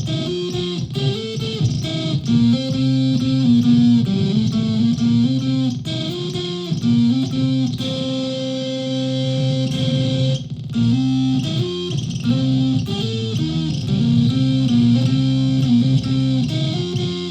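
Solid-body electric ukulele played through a cloned Dwarfcraft Robot Devil effects pedal, picking a melodic line of single notes with one long held note about halfway through.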